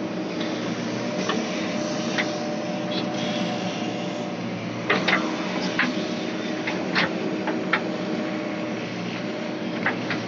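JCB backhoe loader's diesel engine running steadily, with about ten scattered sharp knocks and clanks.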